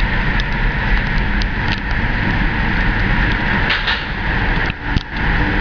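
1970 Chevelle SS's V8 running and its road noise heard from inside the moving car, a steady rumble with a hiss of tyres and wind. There is a brief dip and a sharp knock near the end.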